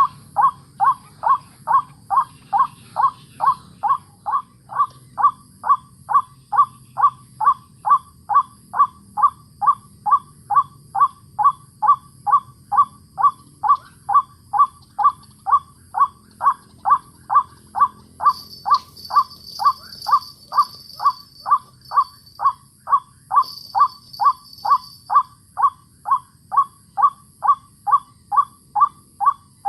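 White-breasted waterhen call: a short, slightly falling note repeated very evenly, about twice a second, as played to lure young waterhens to a trap. A higher-pitched bird call joins twice in the second half.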